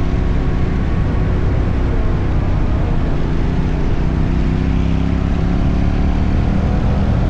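Motorcycle engine running under way, its pitch drifting gently up and down as the revs change, over a steady rush of road and wind noise.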